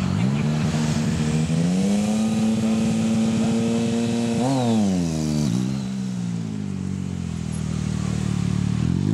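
Suzuki V-Strom 650's V-twin engine riding slow, tight turns between cones: held at steady revs, then a sharp blip up and back down about four and a half seconds in and a smaller one a second later, before settling lower and rising again near the end.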